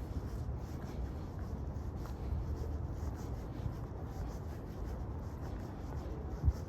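Walking footsteps crunching on gravel, about two steps a second, over a steady low city rumble. One dull thump near the end.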